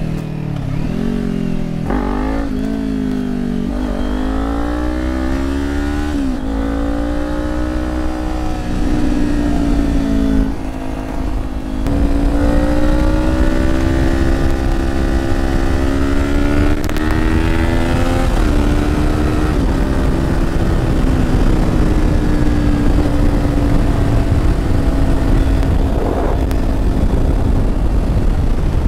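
Kawasaki Ninja 400 parallel-twin engine accelerating through the gears, its pitch climbing and dropping sharply at each upshift, about every two seconds at first. It eases off briefly near the middle, climbs again to one more shift, then settles into a steady cruise.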